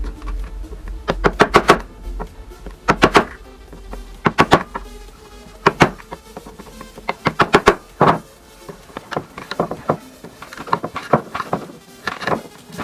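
Hammering on wood: sharp knocks in irregular quick clusters of several blows, over background music.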